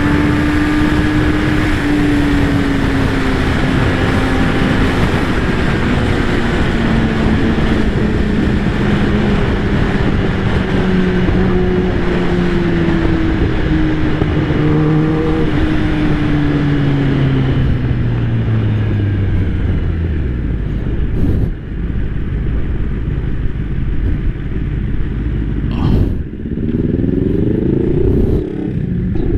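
Kawasaki ZX-10R's inline-four engine under heavy wind rush, its note falling slowly and steadily for about twenty seconds as the bike slows. It then settles to a low rumble with a couple of knocks, and the revs rise briefly near the end.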